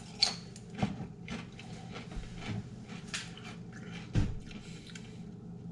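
Crunching and chewing of a crisp chip dipped in salsa: a string of short, sharp crunches spread out about a second apart.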